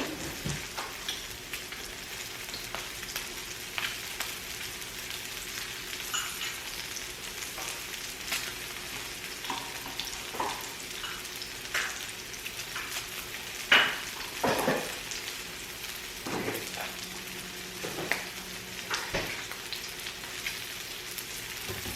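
Pork belly sizzling and spitting fat on a tabletop Korean barbecue grill, a steady hiss. Occasional clicks and knocks from utensils come through it, the loudest about fourteen seconds in.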